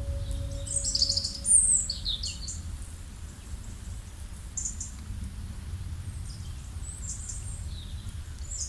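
Small birds chirping in short, high, quick calls and down-sweeping notes, busiest in the first couple of seconds and again near the end, over a low steady rumble. A singing bowl's ringing tone dies away in the first second or so.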